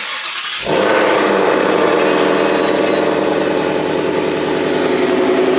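Mustang GT V8 with headers, X-pipe and factory mufflers firing up about half a second in, then settling into a loud, steady idle.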